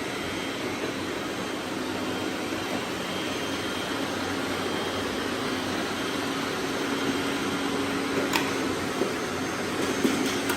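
Robot vacuum motors running with a steady whirring hum, and a single sharp click about eight seconds in.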